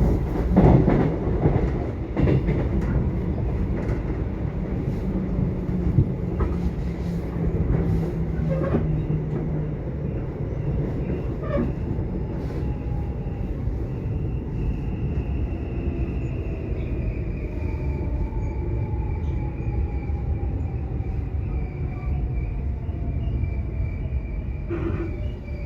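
Subway train running: a steady rumble of wheels on track with scattered clicks. Through the second half, a faint whine slowly falls in pitch.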